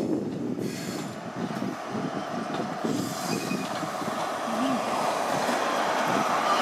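An InterCity 125 High Speed Train running past: wheels and coaches rumbling on the track, growing louder from about halfway through as its class 43 diesel power car draws near.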